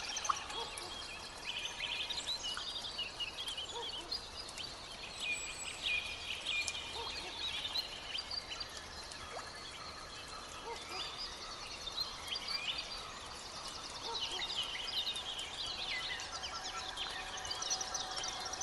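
Several birds singing and chirping at once, dense overlapping chirps and trills over a faint steady hiss: a forest bird chorus.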